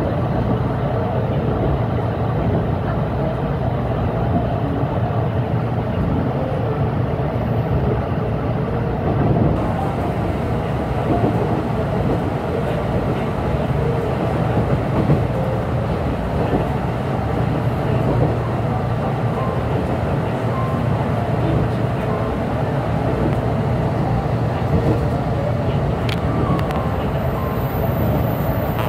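Cabin noise inside a 413 series electric multiple unit running along the line: a steady low rumble of wheels and running gear, with one brief click about 26 seconds in.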